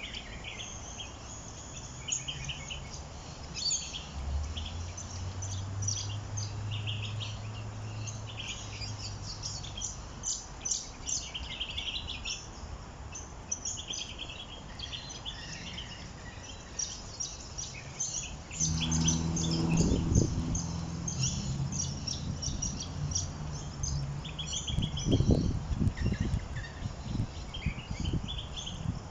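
Small songbirds chirping and twittering continuously, many short overlapping calls. A low hum sits underneath from about four to ten seconds in, and again, louder, from about two-thirds of the way through.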